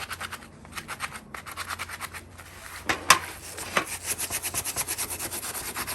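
Steel wire brush scrubbing vinegar-soaked surface rust off the metal of an antique wood stove, in rapid back-and-forth strokes. A sharp knock about three seconds in.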